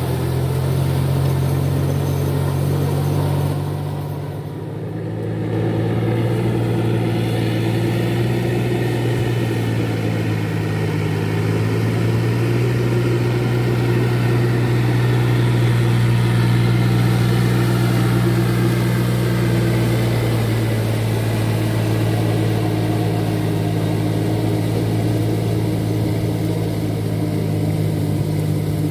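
Four-wheel paddy-field tractor's engine running steadily, easing briefly about four seconds in and then settling back to its steady note.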